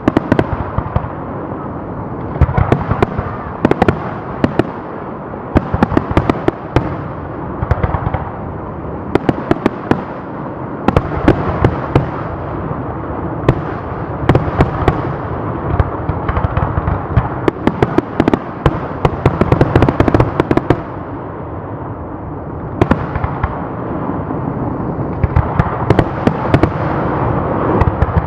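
Fireworks going off continuously: dense sharp bangs and crackling over a constant rumble of bursts, coming in clusters with a brief lull a little after the middle.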